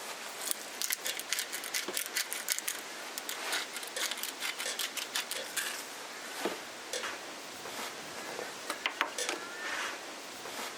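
Rapid, irregular sharp clicks and crackles: a busy run through the first six seconds, a quieter spell, then another short cluster about nine seconds in.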